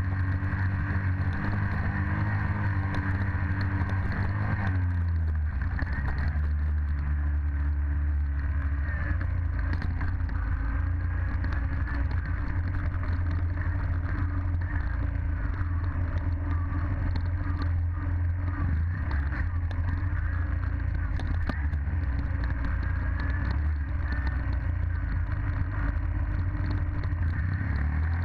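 Dirt bike engine running steadily, its pitch dipping about five seconds in and shifting again near the end.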